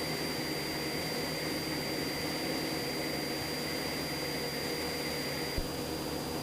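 Cessna 172SP's four-cylinder Lycoming engine and propeller droning steadily in flight, heard from inside the cabin. A small click about five and a half seconds in, as a faint high tone cuts off.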